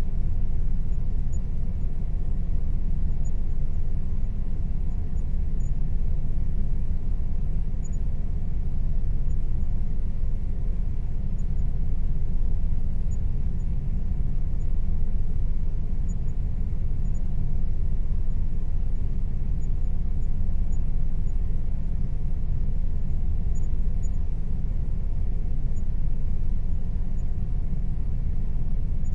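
Air conditioner running steadily: a constant low rumble with a faint hum above it.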